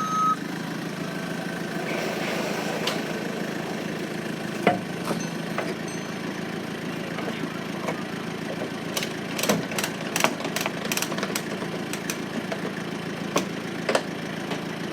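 Vehicle engine idling steadily, with a single sharp knock about five seconds in and a run of sharp knocks and clatters from about nine to fourteen seconds in.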